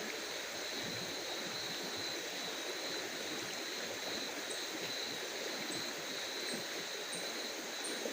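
Steady night-time outdoor ambience: an even hiss with a constant high thin tone. From about halfway, a short very high chirp repeats roughly every two-thirds of a second.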